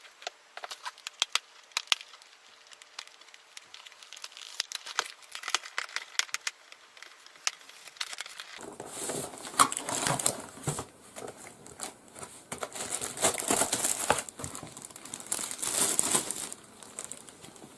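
Product packaging being handled: light clicks and taps at first, then from about nine seconds in plastic wrapping crinkling and rustling as a new keyboard is unwrapped.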